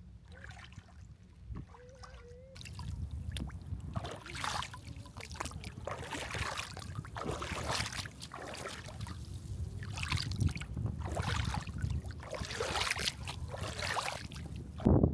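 Water sloshing and splashing in irregular surges every second or two, after a quiet first couple of seconds.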